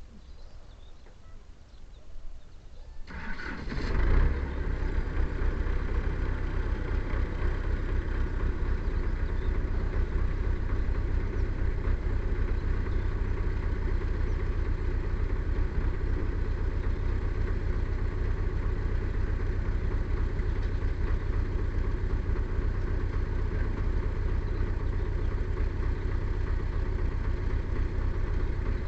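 An engine is started about three seconds in, catches with a brief surge, then runs steadily with a deep low rumble.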